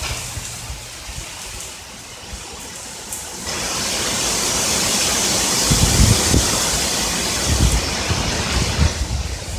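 Thunderstorm rain that suddenly grows into a heavy downpour about a third of the way in, with short low rumbles of thunder underneath in the second half.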